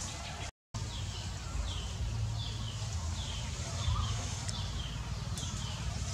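A bird repeating a short, high, falling chirp roughly twice a second, over a steady low rumble. The sound cuts out completely for a moment about half a second in.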